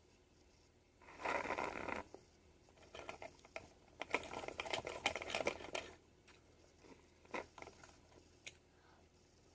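Close handling noises: scratchy rustling and crinkling, one dense burst about a second in and a longer stretch of rapid crackling from about three to six seconds, then only faint clicks.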